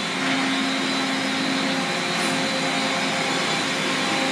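1996 Makino A55 horizontal machining center running a program, with a steady hiss of high-pressure through-spindle coolant over a steady hum.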